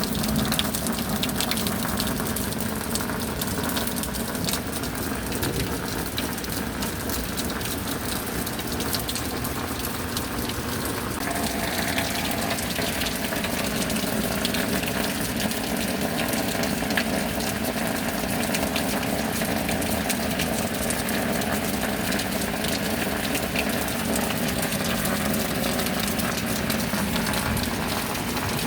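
Steady rain with water gushing and running, an even wash of sound that shifts slightly about eleven seconds in.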